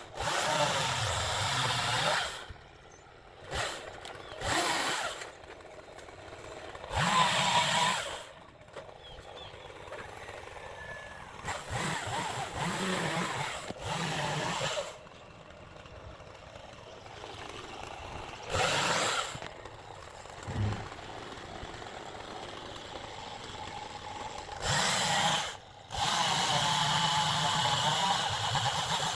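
Stihl chainsaw cutting up in a tree in repeated bursts: it revs for a second or two at a time and drops back to a quieter idle in between, with a longer run near the end.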